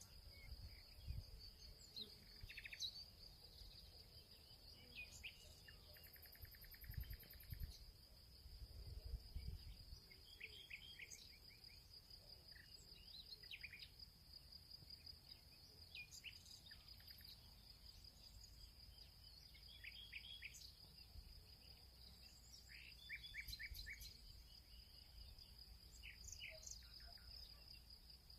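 Faint field ambience: a steady high insect trill, typical of crickets, runs throughout, with short bird chirps scattered over it. A few low rumbles come and go, the strongest about a second in and again around seven to nine seconds in.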